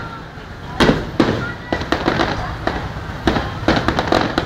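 Fireworks display: a rapid series of sharp bangs from bursting shells, about eight over the last three and a half seconds, some trailing into a short echo or crackle.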